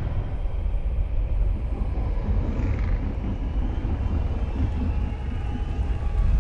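Freestyle motocross bike's engine running, heard as a deep, steady rumble.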